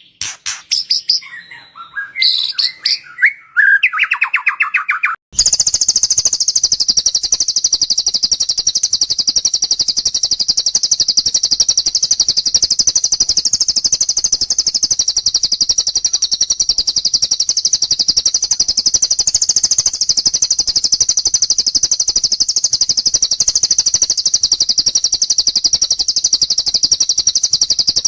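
Caged-bird song recording: a few seconds of varied whistled chirps, then a long, unbroken, very rapid high-pitched trill that runs on for over 20 seconds. This is the lovebird's 'long shot' ngekek trill.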